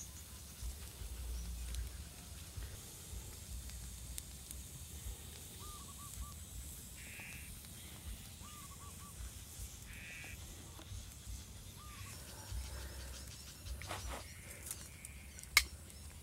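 Birds calling outdoors: a few short calls every couple of seconds over a low rumble. A single sharp tap sounds near the end.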